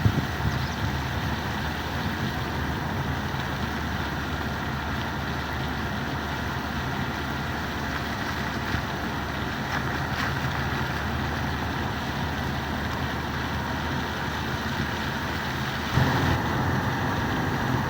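A running engine's steady low rumble with a wide hiss over it, getting louder about sixteen seconds in.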